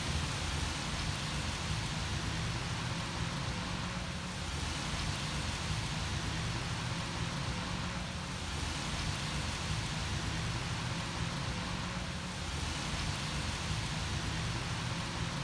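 Steady rain falling on water, an even hiss of raindrops.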